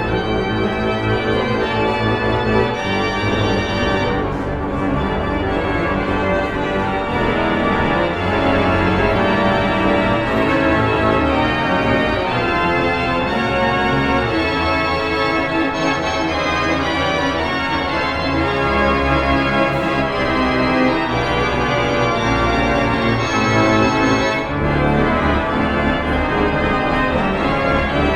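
Church organ playing a loud toccata: quick-moving notes and chords over held bass notes.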